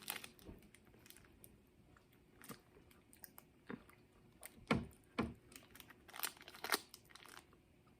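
Someone chewing a Snickers Almond candy bar, with scattered soft crunches and clicks of chewing.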